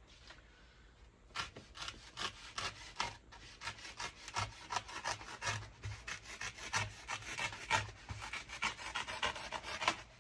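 A knife sawing lengthwise through a foam pool noodle, in quick back-and-forth strokes of about three a second that begin about a second and a half in.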